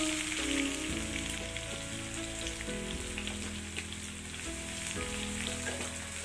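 Food frying in hot oil in a pan: a steady sizzle, under background music.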